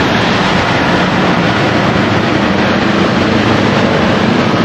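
Steady rush of wind and road noise with a motorcycle engine running, heard from the back of a moving motorbike taxi.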